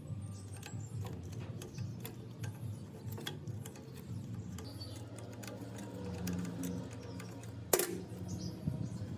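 Light, irregular mechanical ticking and clicking over a steady low hum, with one sharp click about eight seconds in.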